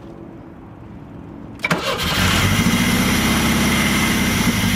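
A click about one and a half seconds in, then the Fiero's 2.5-litre Iron Duke four-cylinder with throttle-body injection turns over and runs with an even pulse for about three seconds before cutting out. The engine is starved of fuel, which the owner suspects is down to too weak a fuel pump.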